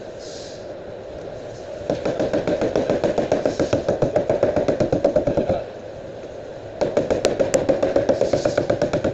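Rapid, even tapping on a car body panel, as in tapping down during paintless dent repair, with a ringing tone under the taps. It comes in two runs of a few seconds each, separated by a short pause.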